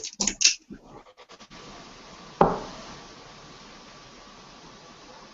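A dart striking the dartboard once with a sharp thud, about two and a half seconds in, after a few short scuffing and rubbing noises in the first second and a half.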